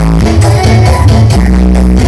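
Loud electronic dance music with a heavy bass line, played through a big 'sound horeg' carnival sound system.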